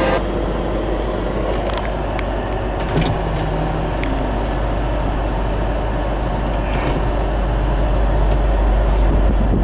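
1970 Ford Bronco running: a steady low rumble with a few faint clicks and knocks.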